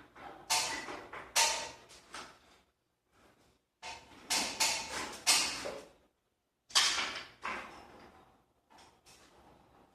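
Clattering knocks and scrapes in three clusters, with short silent gaps between them.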